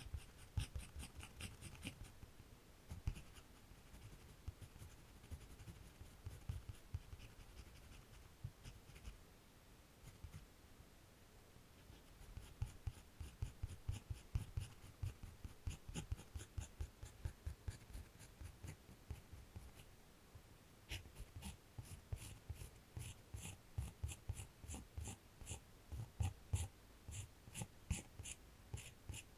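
A drawing tool scratching on paper in runs of quick short strokes. It eases off to a few faint strokes about ten seconds in, then picks up into rapid, steady strokes for the last third.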